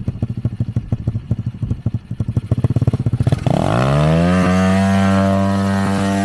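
Dirt-bike engine on a drift trike idling with an even, pulsing beat, then revving up about three and a half seconds in and holding a steady higher speed.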